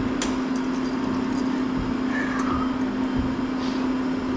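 Steady mechanical hum with a constant low tone, with a few light clicks over it.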